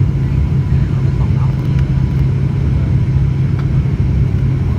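Steady, loud drone of an ATR 72-500's twin turboprop engines and propellers.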